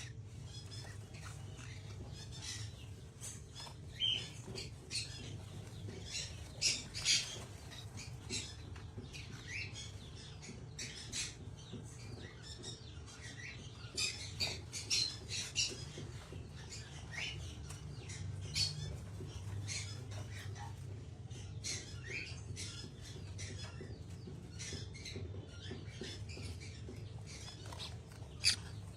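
Pet parrot making short, high chirps and squawks in scattered clusters, over a steady low hum.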